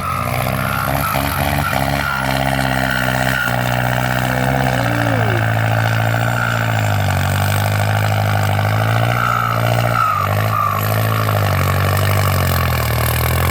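Kubota M8808 tractor's new turbocharged diesel engine running under load pulling a disc plow through soil, its pitch sagging and recovering several times as the load changes.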